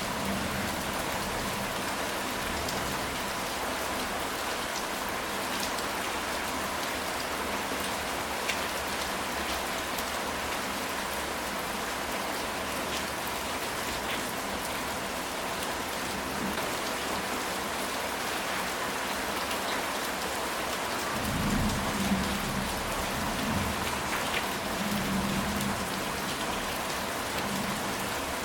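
Steady heavy rain falling on a ceramic tile roof, with the patter of individual drops over an even hiss. About three-quarters of the way in, a low rumble of thunder rolls for several seconds.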